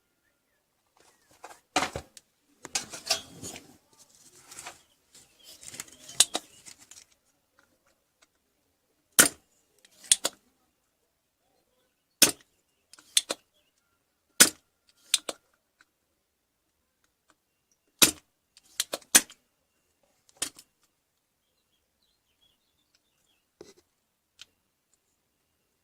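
Handling noise: rustling and scraping mixed with sharp clicks for the first several seconds, then a series of separate sharp clicks and knocks of hard objects with pauses between them.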